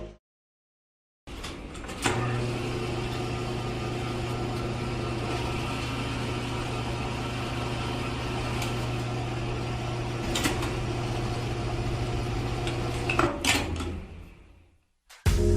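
A small electric motor running with a steady hum, starting about a second in and dying away near the end.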